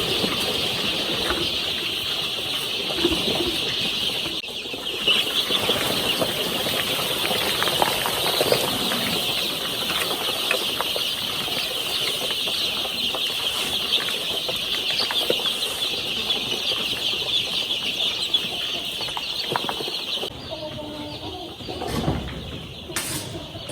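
A large brood of young chicks peeping together in a dense, continuous chorus of high chirps, which drops away abruptly near the end.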